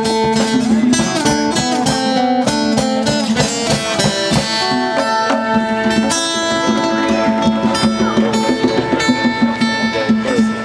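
Live acoustic band jam: strummed and plucked guitars with hand drums keeping a busy rhythm.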